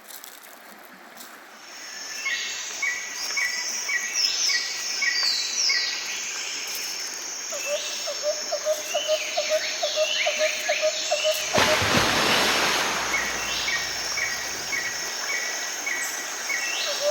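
Birds singing and calling: strings of short repeated chirps and quick downward-sweeping whistles, with a fast low trill in the middle. A brief rush of noise breaks in about two-thirds of the way through.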